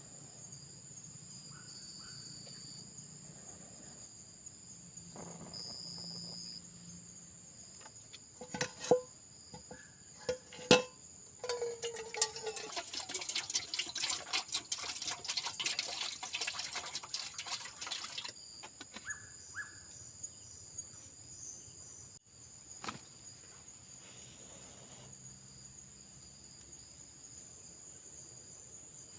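Forest insects and crickets keep up a steady high-pitched chirring. Midway there are a few sharp knocks, then about six seconds of dense crackling noise that stops suddenly.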